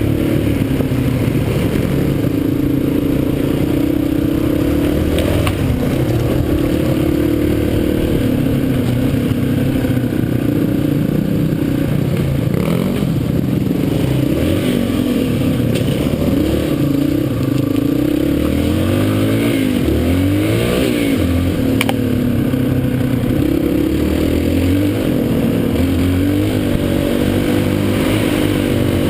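Dirt bike engine running and revving up and down throughout, with the pitch swinging quickly up and down several times about two-thirds of the way through. A few sharp clicks and knocks are heard along the way.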